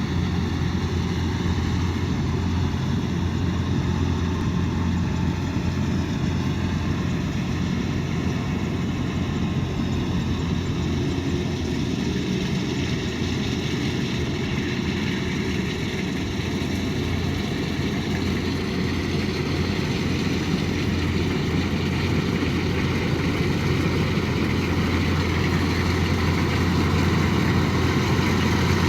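Kubota DC108X combine harvester running steadily, its engine and machinery giving a constant low drone, growing slightly louder near the end.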